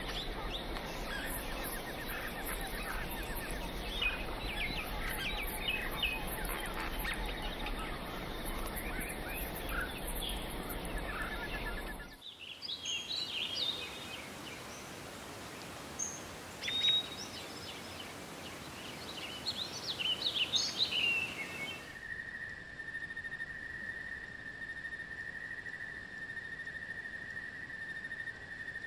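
Outdoor nature ambience that changes twice: first a dense chorus of wild birds chirping over a low rumble; about twelve seconds in, scattered bird chirps and calls in a quieter background; and from about twenty-two seconds, a steady, even high-pitched insect drone.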